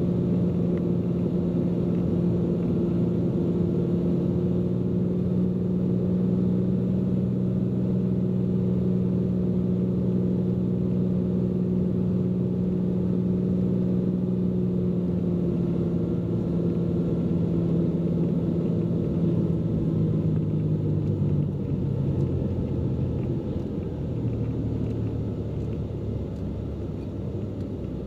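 Cessna P210N's piston engine and propeller droning steadily in the cockpit on final approach, then dropping in pitch and slowly getting quieter about three quarters of the way through as power comes back.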